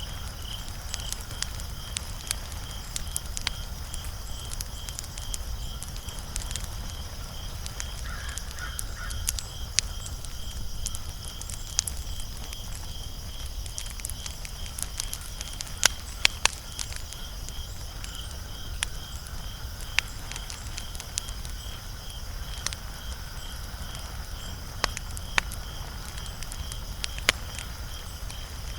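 Wood fire crackling, with sharp irregular pops scattered throughout, the loudest cluster about sixteen seconds in. Behind it runs a steady, evenly pulsing high chirp.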